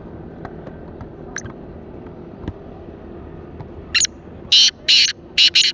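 Black francolin calling: a loud, harsh series of four grating notes near the end, the first short and the next three longer and louder, over a low steady background hum.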